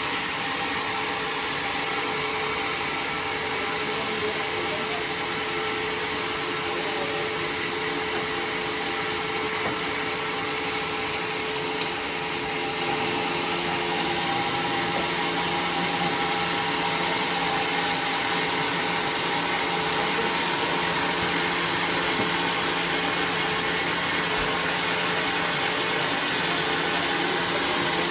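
Sawmill machinery running steadily with a constant hum. About halfway through it gets a little louder and hissier.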